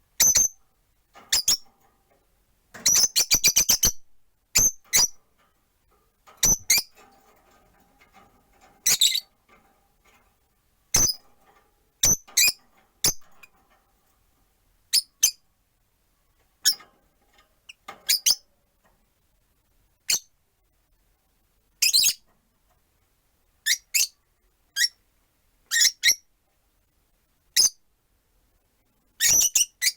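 Rosy-faced lovebirds calling with short, sharp, high-pitched chirps, spaced one every second or two. A few seconds in there is a quick run of about a dozen rapid chirps.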